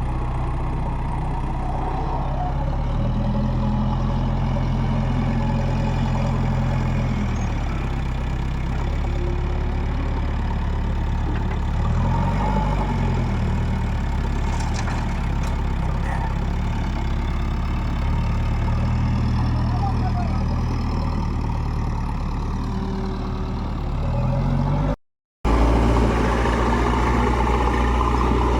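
Heavy-machinery diesel engine running steadily under varying load, its pitch rising and falling a few times. The sound drops out completely for a moment near the end, then the engine carries on.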